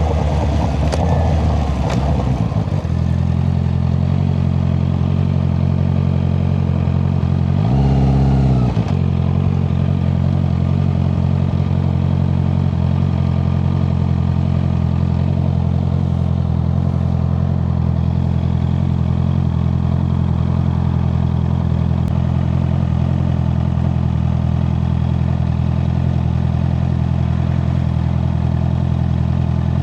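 Honda CBR650R's inline-four engine through an Akrapovic exhaust, running at a steady speed under way. It sounds rougher for the first few seconds, then holds an even note, which dips and comes back up briefly about eight seconds in.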